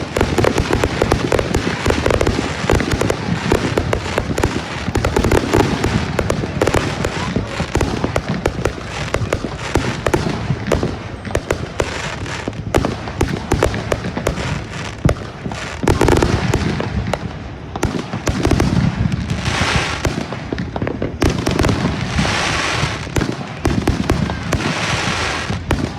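Fireworks going off in a rapid, continuous barrage of bangs and crackling, with several spells of hissing crackle in the second half.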